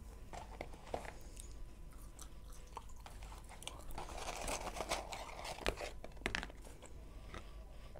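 Close-up chewing of McDonald's french fries, with small wet clicks of the mouth. About four seconds in the paper fries carton rustles as fries are pulled from it, followed by a couple of sharp clicks.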